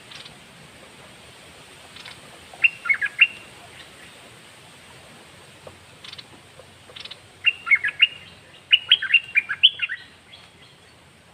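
Red-whiskered bulbul singing: a short run of quick, sharp chirping notes about two and a half seconds in, then a longer run of about a dozen notes from about seven and a half seconds, over a steady background hiss.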